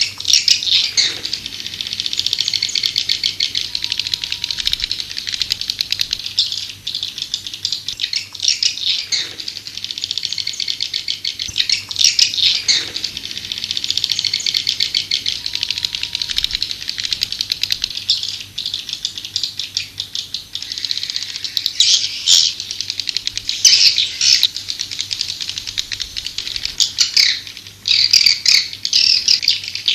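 White-nest (edible-nest) swiftlet calls: a dense, unbroken rapid chittering twitter with louder bursts every few seconds. This is the swiftlet-house lure sound played to call swiftlets in to roost and nest.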